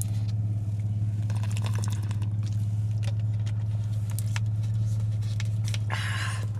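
Steady low hum of a car's engine idling, heard from inside the cabin, with a few small clicks and a brief rustle near the end.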